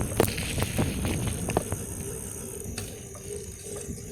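Bicycle riding noise heard from a handheld phone: a steady low rumble of tyres and wind on the microphone, with a few sharp clicks and knocks in the first couple of seconds.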